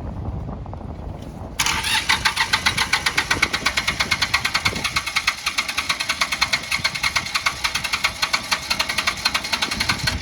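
International 234 tractor's electric starter cranking its diesel engine. It kicks in about a second and a half in and runs at an even, rapid pulsing rhythm for about eight seconds, then cuts off suddenly without the engine clearly catching.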